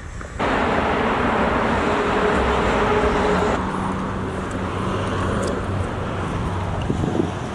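Steady road noise of a car driving, with a low engine hum. It starts suddenly about half a second in and becomes quieter and duller a little after halfway.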